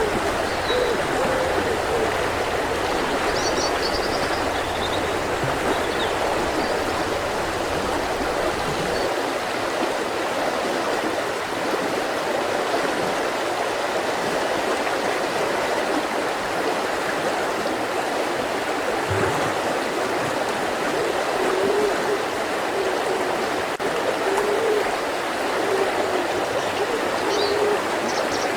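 Mountain river rushing and gurgling over rocks in a steady wash, with a few faint short bird chirps about three to five seconds in and again near the end.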